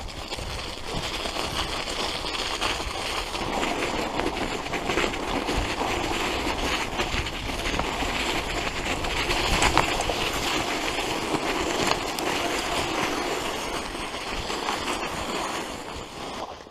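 Road bike ridden over snow: a steady rushing noise of the tyres crunching and crackling through the snow, dropping away sharply near the end.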